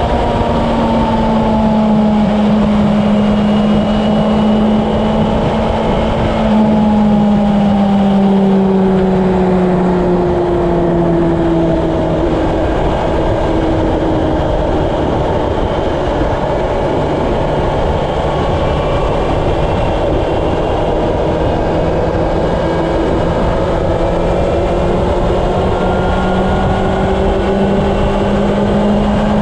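Honda CB750's inline-four engine running at highway speed over heavy wind and road noise. The engine note sinks gradually from about seven seconds in as the bike slows, then climbs again near the end.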